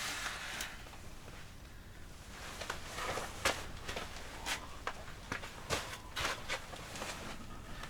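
Scattered light clicks and rustles at irregular intervals, a brief rush of noise at the start: handling noise inside a small tent.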